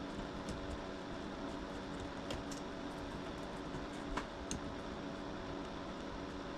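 Steady hum of garage room noise, with a few light clicks and taps from hand work on the car, mostly between about two and four and a half seconds in.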